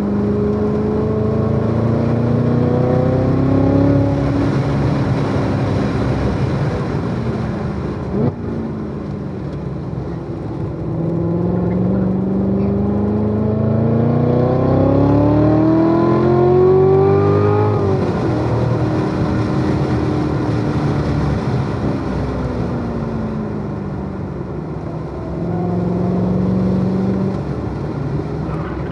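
Supercharged V8 of a Corvette C7 Z06 under hard track driving, heard from on board. Its pitch climbs through a long pull about a third of the way in, drops abruptly just past the middle, winds down, and then steadies.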